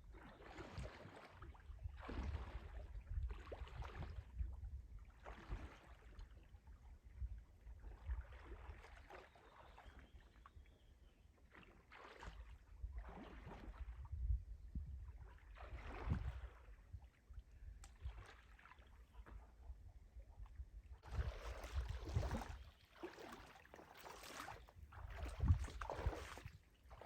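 A small boat being rowed: the oars dip and splash in the water roughly once a second, irregularly, over a steady low rumble of wind on the microphone.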